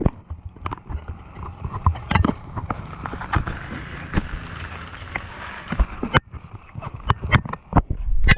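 Footsteps knocking and clacking irregularly on a hard surface, with a steady hiss in the middle seconds.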